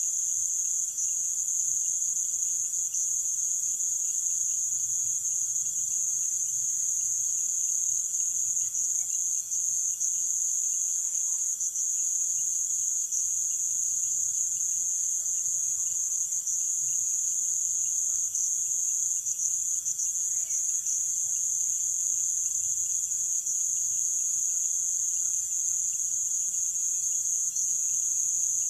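Nocturnal insect chorus: many insects shrilling together in a steady, high-pitched, unbroken drone, with a fainter, lower steady tone beneath it.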